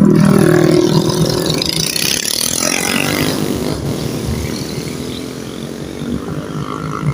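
A motor vehicle engine running, loudest at the start and fading gradually.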